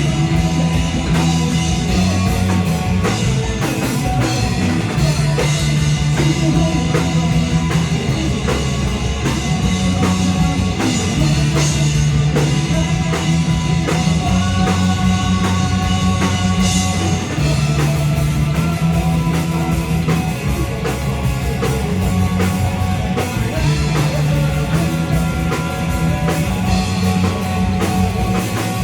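Live rock band playing with a full drum kit, bass and electric guitars: a steady, loud passage with a bass line that changes note every second or so under continuous drumming.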